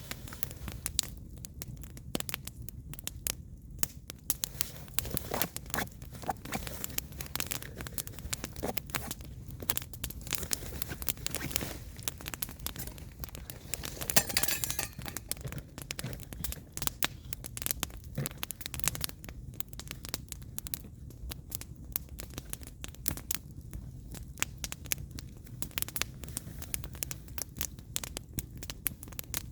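Firewood burning in an open fire: dense crackling with many sharp pops over a low steady rumble. About halfway through, a short hiss lasts about a second.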